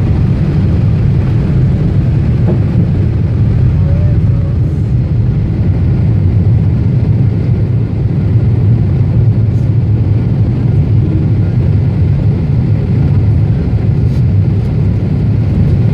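Steady, loud low rumble of a Boeing 747-8's GEnx engines and airflow heard inside the passenger cabin.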